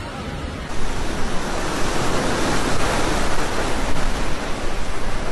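Loud, steady rush of floodwater, with wind buffeting the microphone; it steps up in loudness about a second in.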